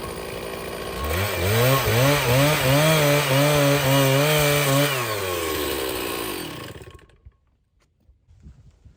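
Stihl chainsaw running at low revs, then revved up hard about a second in and cutting through a log, its pitch wavering under load. The throttle drops back a little after halfway, and the engine winds down and stops; a few faint knocks follow.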